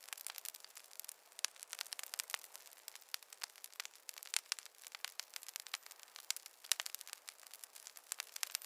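Wood fire crackling in a fireplace: dense, irregular small pops and snaps over a soft hiss.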